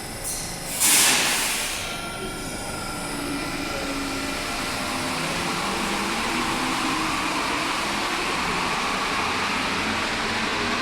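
Interior of an Alstom NS-16 metro train: a short, loud hiss of air about a second in, then the car's steady running noise with a faint motor hum, slowly growing louder.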